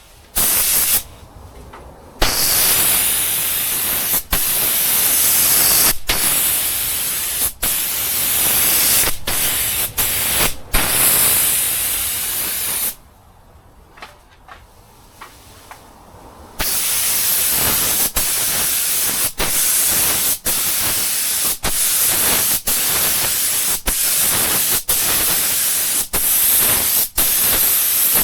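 Compressed-air paint spray gun hissing as clear coat is sprayed. It runs in long passes with brief breaks between them and stops for a few seconds about halfway through.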